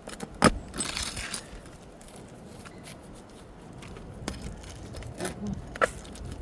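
Flat bar prying staples out of roof shingles: a few sharp clicks, the loudest about half a second in, and a short scraping, tearing noise around a second in.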